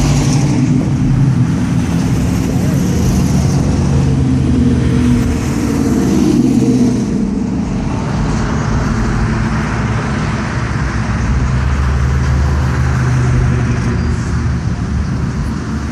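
Classic cars driving past one after another, their engines running at cruising speed with steady exhaust and road noise. The sound changes about halfway through as one car goes by and the next comes up.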